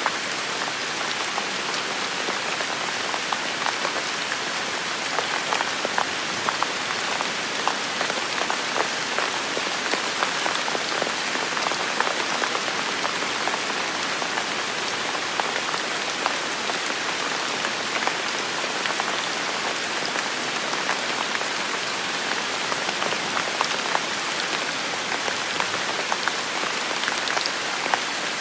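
Heavy rain falling steadily, a dense even hiss of rain with many small drop impacts.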